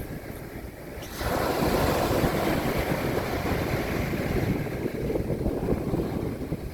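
Mediterranean Sea waves breaking on a beach: a low steady wash, then about a second in a wave crashes and its surf runs on loudly for a few seconds before easing off.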